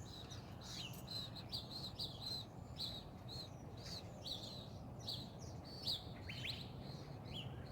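Woodpecker nestlings calling from inside the nest hole: a steady run of short, high chirps, about three a second.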